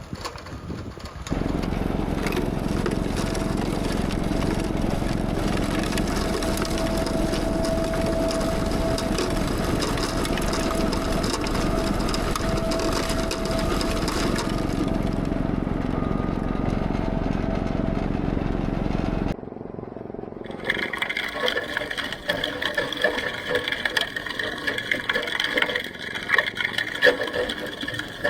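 Tractor with a rear-mounted two-stage snowblower running steadily as it clears a deep drift. It stops suddenly about two-thirds of the way through, and a quieter, different sound follows.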